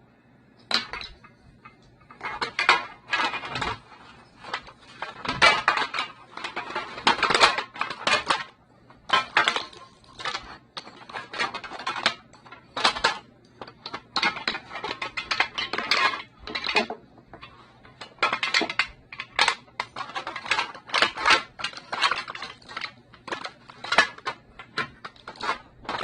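Small decor pieces being handled and set into a tray: irregular clicks, clatters and rustles, close by.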